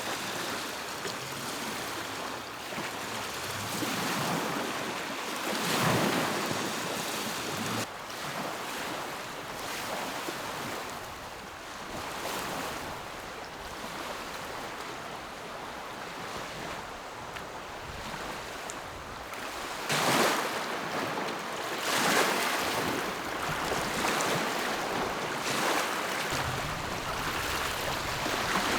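Lake waves lapping and washing onto the shore, swelling and ebbing every few seconds, with a couple of stronger surges about two-thirds of the way in.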